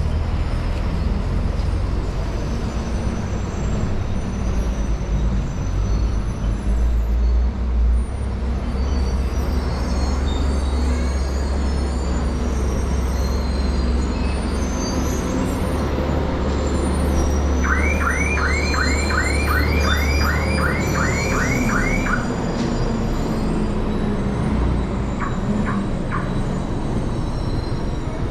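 Town street sounds: a vehicle engine running close by with a steady low rumble that stops about three-quarters of the way through, small birds chirping high above, and a quick run of about a dozen rising chirps, roughly three a second, lasting a few seconds.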